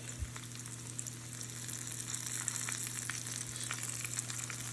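Floured dove and pigeon breasts frying in hot oil in a small pan: a steady sizzle full of fine crackling pops, growing a little louder toward the end, with a faint low hum underneath.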